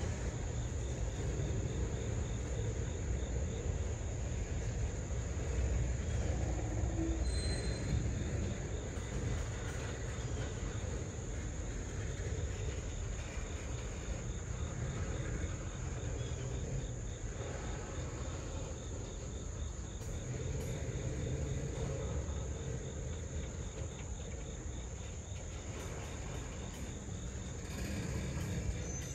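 Railroad tank cars of a freight train rolling past, a steady rumble of wheels over the rails. Insects trill steadily in the background.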